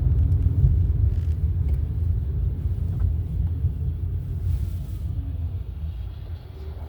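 Low, steady rumble of a car on the move, easing and getting gradually quieter over the last few seconds.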